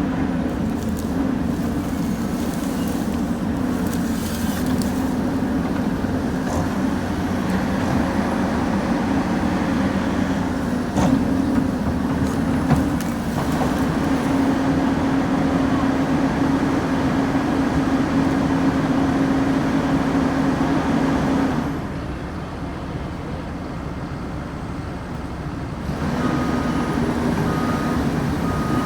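Heavy diesel machine engine running steadily, with a couple of knocks partway through. Near the end it drops quieter for a few seconds, then comes back up with a short beep repeating about once a second.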